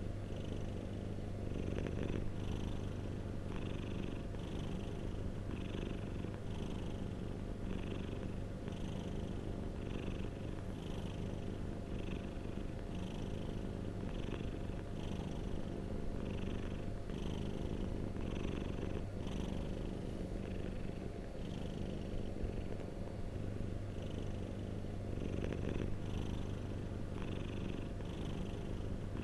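Domestic cat purring steadily, a continuous low rumble that swells and eases a little more than once a second with its breathing.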